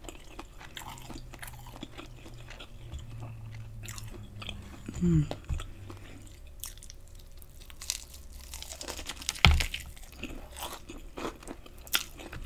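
Close-miked chewing of battered fried lobster tail: crisp crunches and wet mouth clicks as the crust is chewed. A brief hum comes about five seconds in, and a dull knock comes a little after nine seconds.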